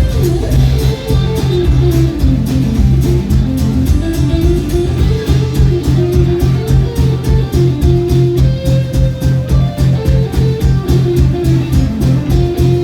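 Live band playing an instrumental passage: a guitar melody with gliding notes over a steady bass line and a drum beat.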